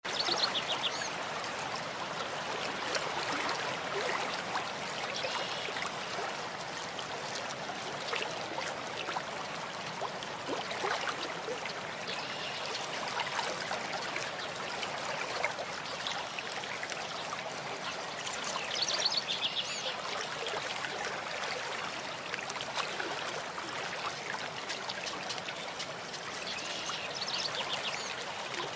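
A stream running steadily, a continuous rushing trickle of water. Short high chirps stand out over it a few times.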